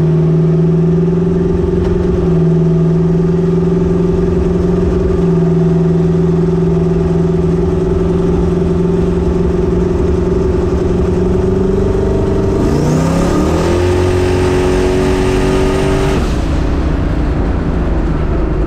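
Twin-turbo LS V8 in a Chevy S10 drag truck running at a steady engine speed, then climbing in pitch about two-thirds of the way in as it accelerates. A hiss rides on top for a few seconds before the engine note drops back and settles again.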